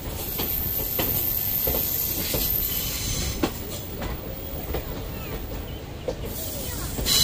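Indian Railways passenger train running along the track: a steady rumble of coach wheels on the rails, with sharp clicks every second or so as the wheels cross rail joints.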